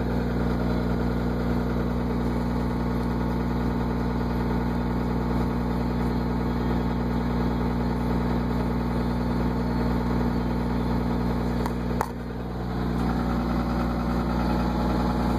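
1998 Dodge Ram 2500's 5.9-litre Cummins 24-valve turbo diesel idling steadily after a cold start, through a 4-inch straight-pipe exhaust. About twelve seconds in there is a sharp click and the engine sound briefly drops, then comes back up.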